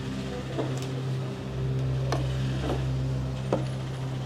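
A steady low mechanical hum with a few light clicks and knocks over it.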